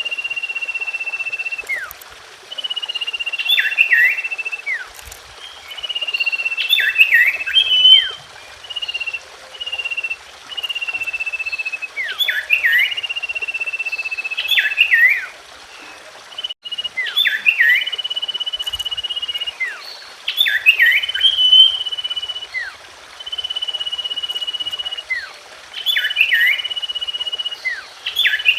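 Common iora (cipoh) singing: phrases of a long, level, high whistle held for about a second, mixed with quick, sharply falling notes, repeated every two to three seconds.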